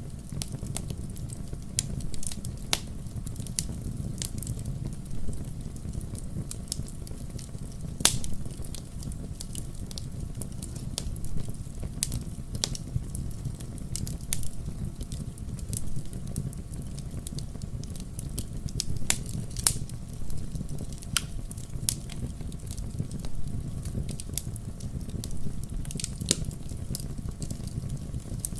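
Wood campfire crackling: irregular sharp pops and snaps, one louder pop about eight seconds in, over a steady low rumble of the burning fire.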